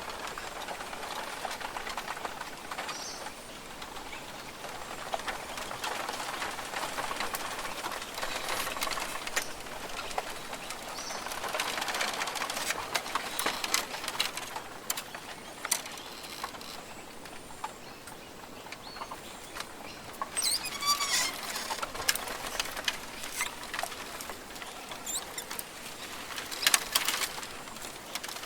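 Rainforest ambience: a steady background hiss with many small scattered clicks and rustles, and short bird calls now and then, including a quick run of notes about two-thirds of the way through.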